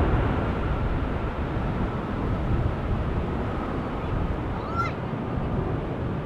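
Steady jet-engine rumble from a landing Boeing 747, with a faint whine that fades out. A single bird chirp comes in about five seconds in.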